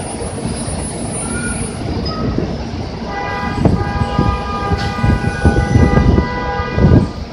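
A vehicle horn held steadily for about four seconds, starting about three seconds in, over the low rumble of bus engines and traffic.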